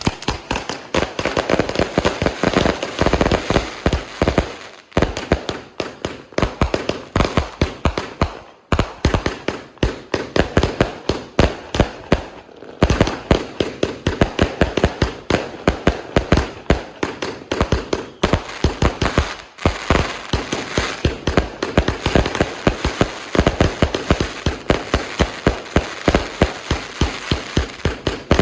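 A 138-shot firework cake firing a fast, continuous string of shots, several bangs a second, each followed by crackle. The barrage breaks off for a moment a few times (about five, eight and a half, and twelve and a half seconds in) before resuming.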